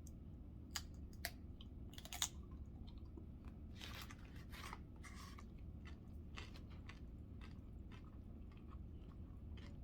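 Faint chewing of food, with scattered short clicks and a few brief noisy smears.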